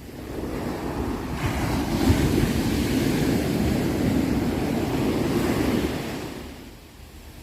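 Sea waves: surf swells up, breaks and washes for several seconds, then falls away over a steady low rumble.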